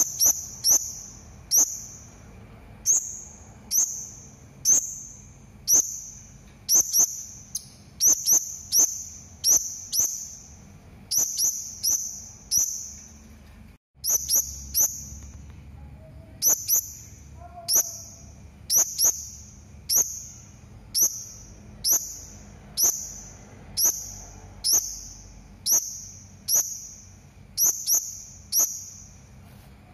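Serindit (hanging parrot) calling: short, sharp, high-pitched calls that dip slightly, repeated about twice a second and often in quick pairs, with a brief break near the middle.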